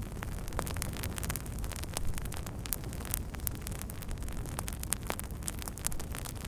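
Wood fire burning, crackling and popping irregularly over a steady low rumble.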